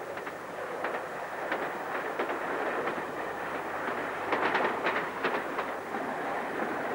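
Passenger train running at speed, heard from on board: a steady rumble of wheels on track, with clicks at irregular intervals as the wheels pass over rail joints. The clicks come closest together about four to five seconds in.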